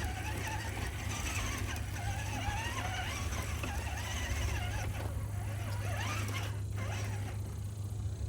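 Scale RC crawler's brushed electric motor and drivetrain whining, the pitch rising and falling as the throttle is worked over dirt, over a steady low rumble.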